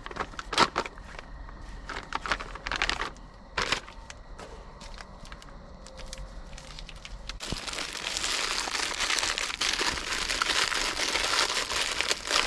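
Plastic MRE ration bag and the packets inside it crinkling as they are handled: scattered crackles and rustles, then a louder, continuous plastic rustling that starts about seven and a half seconds in.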